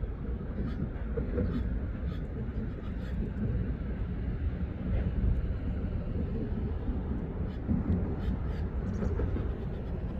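Airliner on approach to land, a steady low engine rumble.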